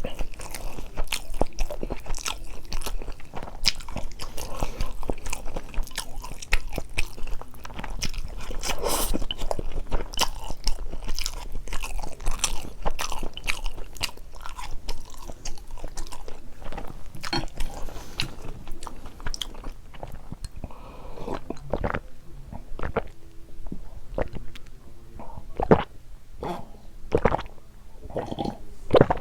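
Close-miked chewing and biting of spicy carbonara noodles with Spam and Vienna sausages: wet, crunchy mouth sounds, dense at first, then thinning out after about twenty seconds into fewer, louder separate bites.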